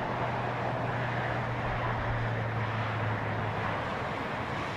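Steady outdoor background noise with a low hum that fades out about three and a half seconds in.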